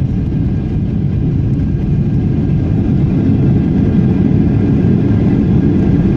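Airliner cabin noise during landing: a loud, steady low rumble of engines and airflow, with faint steady whining tones above it.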